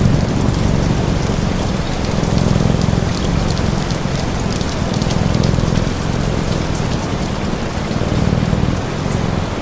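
Steady rain with a low rumbling undertone that swells and fades, and scattered small crackles of a fire.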